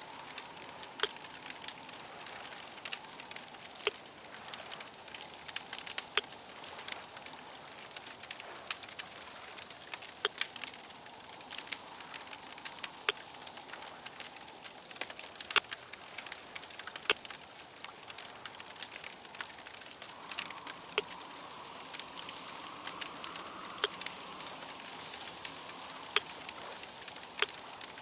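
Fire crackling: irregular sharp pops and snaps over a steady hiss.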